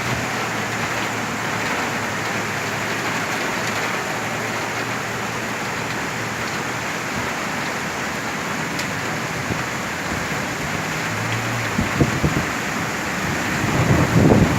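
Heavy rain pouring steadily, a dense even hiss of drops hitting the ground. A few irregular low rumbles come in near the end.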